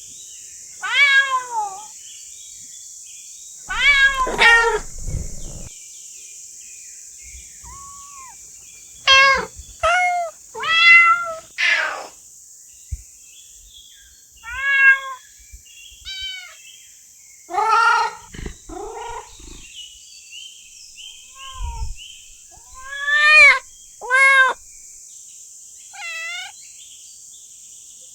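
A cat meowing over and over, about fifteen separate meows with irregular pauses between them, several bending up and then down in pitch. A steady high hiss runs underneath.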